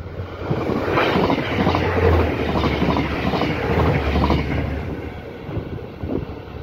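Stadler GTW-D diesel-electric railcar passing close by: a low engine hum under loud wheel-on-rail noise. It swells about a second in and fades over the last second or two.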